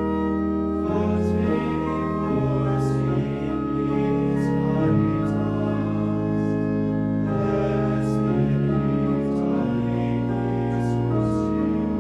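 Choir singing a slow liturgical hymn in sustained chords, with organ accompaniment.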